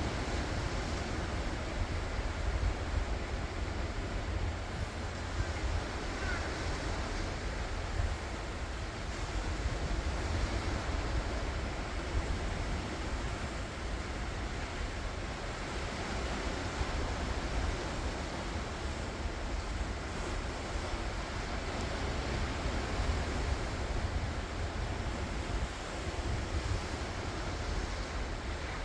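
Ocean waves washing onto the shore, a steady surf noise with a strong low rumble underneath.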